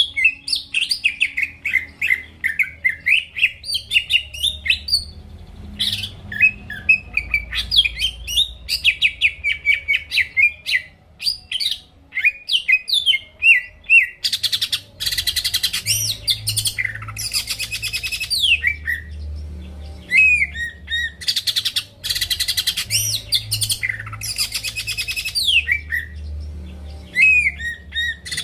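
Cucak ijo (green leafbird) singing in full song: a quick run of varied chirps and whistles, then from about halfway dense rattling trills in bursts of a few seconds, broken by sharp falling whistles.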